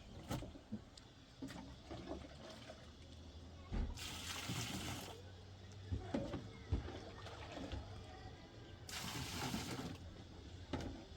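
Water splashing and pouring in two bursts of about a second each, with scattered knocks and clatter between them over a low steady hum.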